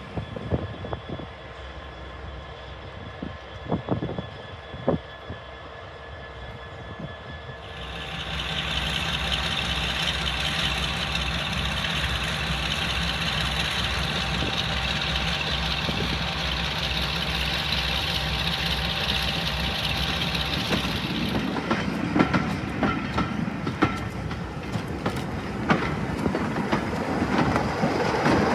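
Diesel locomotive: a few knocks at first, then about eight seconds in the engine comes up loud and runs steadily. Near the end the engine note gives way to wheels clattering over rail joints.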